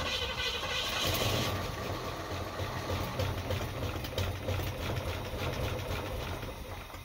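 Junkyard 5.0 small-block Ford V8 running rough on its first start, before its ignition timing has been set. It fades away near the end as it is shut off.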